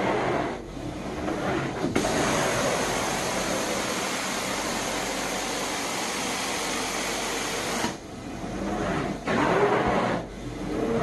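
Carpet-cleaning vacuum suction running. There is a steady, even hiss for about six seconds in the middle, with shorter uneven stretches before and after, as the wand or head moves over the carpet.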